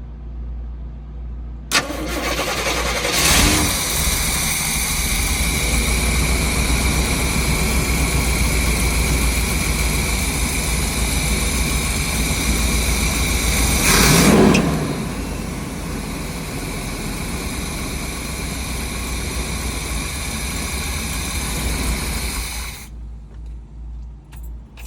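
Chevrolet 454 big-block V8 cranking and catching within about a second on its first start after sitting dormant for about 15 years, then running at a fast idle on the choke. About 14 s in it is given a blip of throttle, after which it settles to a lower, steady idle as the choke kicks off; it stops near the end.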